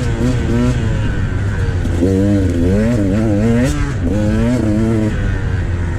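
Two-stroke dirt bike engine of a KTM XC300 revving up and down as the throttle opens and closes, its pitch rising and falling every half second or so. Underneath runs a steady low rumble.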